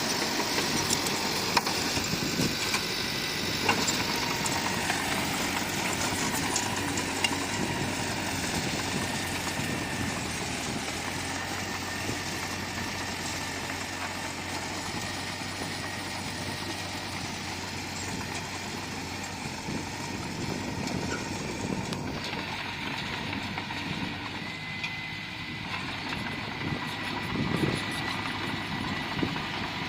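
Bulldozer's diesel engine running steadily, with a few sharp clanks in the first several seconds.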